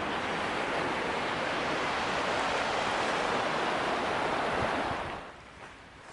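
Creek water rushing in a steady, even hiss that stops abruptly about five seconds in.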